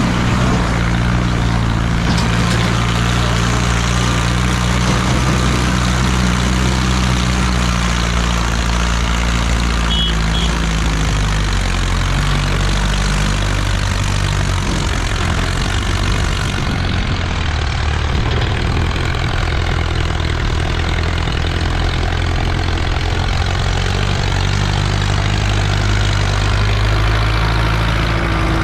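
Diesel tractor engine running steadily and close by, its note dropping a little about eleven seconds in.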